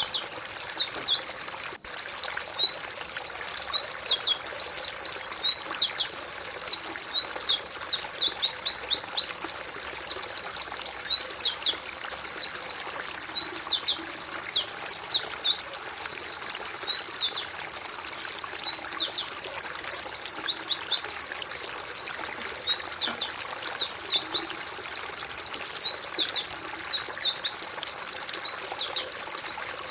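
A flock of white-eyes (pleci) chirping continuously, many short, high, downward-sweeping calls overlapping each other. The sound cuts out briefly just before two seconds in.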